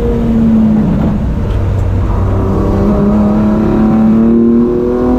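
BMW E30's 2.7-litre M20 straight-six breathing through individual throttle bodies, heard from on board at speed: the revs ease off about a second in, then climb steadily as the car accelerates.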